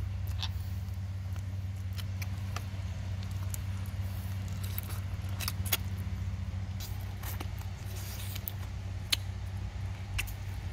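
Wet chewing and lip-smacking clicks from eating cooked chicken feet, scattered every second or so over a steady low hum.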